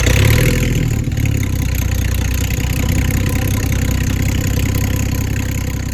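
Ford AU Falcon's 4.0-litre inline-six exhaust, starting suddenly with a loud burst and settling into a steady, low idle through its dual-tip tailpiece. It is really loud, with an exhaust note that the owner finds unpleasant.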